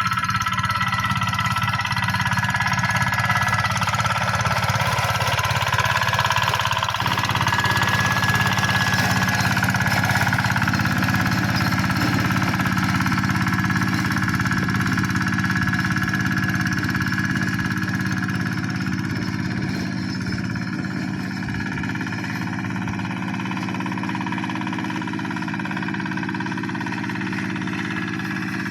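Hand tractor's engine running steadily, with a thin high whine above the low engine note.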